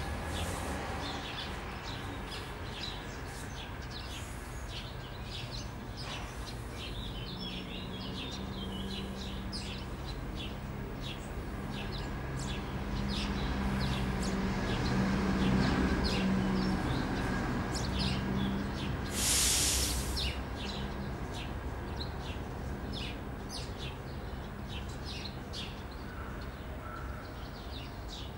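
Small birds chirping over and over, with a low hum that swells and fades through the middle and one short hiss about two-thirds of the way in.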